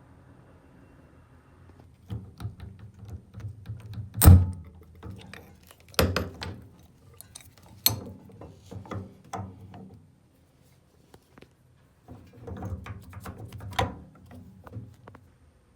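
Irregular knocks, taps and clicks from handling tools and shower valve parts, the sharpest knock about four seconds in, with a short pause in the middle.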